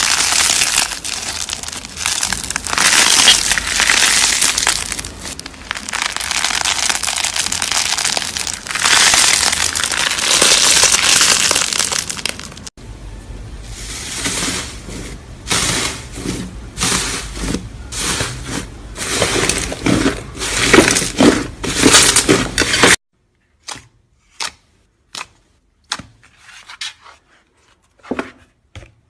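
Slime being squished and kneaded by hand, crackling and crunching densely. About halfway through it changes abruptly to a run of sharp pops and clicks. Near the end it thins to separate short clicks with silence between them.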